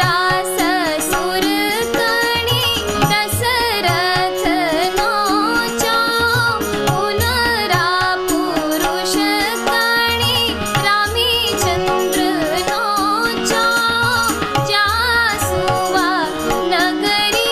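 A woman singing a Kumaoni shagun folk song in a wavering, ornamented melody, over a recurring hand-drum beat and instrumental accompaniment.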